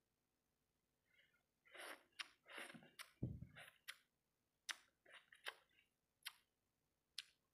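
Close-miked chewing and mouth sounds of someone eating fried rice-ball satay: an irregular run of short sharp clicks and smacks, with a low thump about three seconds in.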